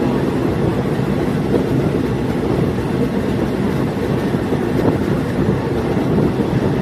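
Diesel multiple unit train running along the track: a steady noise of engine and wheels on rail, even throughout.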